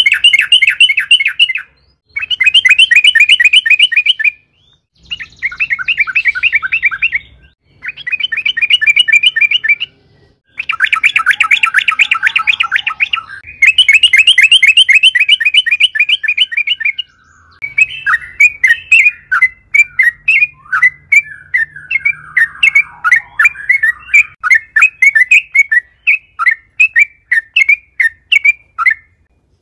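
Yellow-vented bulbul (trucukan) singing in fast chattering trills, in bursts of about two to three seconds with short breaks. A bit past halfway it changes to a looser run of separate quick notes, about two a second.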